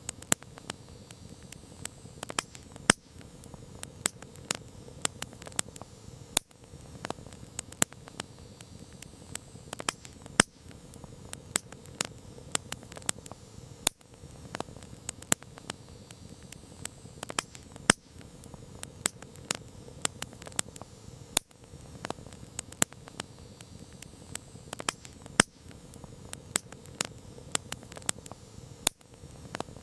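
Campfire wood crackling, with many irregular sharp pops and snaps over a soft steady rush of burning flames.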